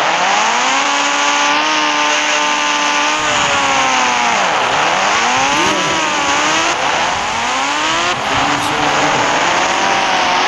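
A vehicle engine revving, its pitch holding, dropping sharply about four and a half seconds in, then rising and falling again.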